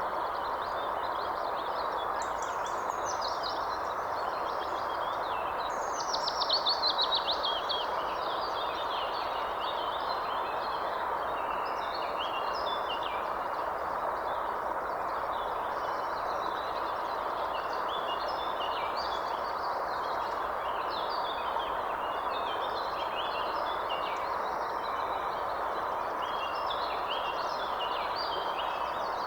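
Several birds singing and chirping over a steady rushing background noise. A louder, fast trill falls in pitch about six seconds in.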